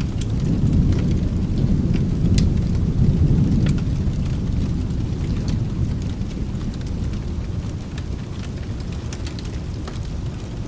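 A low rolling thunder rumble swells over the first few seconds and then slowly dies away, over steady rain. Scattered sharp crackles from a fireplace run through it.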